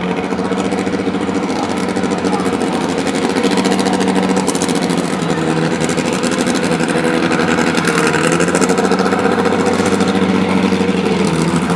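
Drag car engine running steadily at low revs, its pitch dipping briefly about five seconds in and again near the end.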